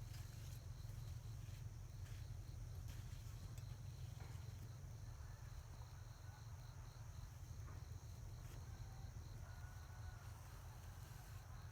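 Faint countryside ambience: insects chirping steadily, with a high note pulsing a few times a second, over a low steady rumble.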